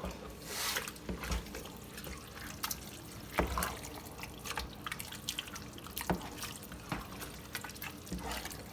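Liquid dripping and splashing with many small irregular clicks, and a short hiss about half a second in.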